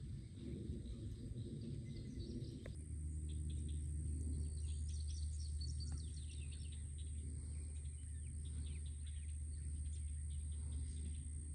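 Birds chirping in short high calls over a steady low rumble of background noise.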